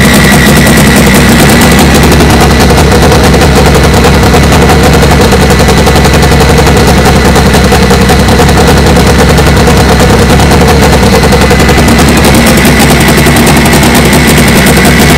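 Turbocharged Honda Civic drag-race engine idling, very loud and rough, with a rapid crackling, machine-gun-like firing rhythm and a steady high whine over it. It is the engine's first run after sitting a long time, with a new set of cams.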